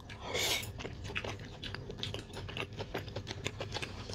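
Close-miked mukbang eating: a bite of stewed pork from a bone soup taken with a short hissy mouth sound, then chewed with many small, irregular wet mouth clicks.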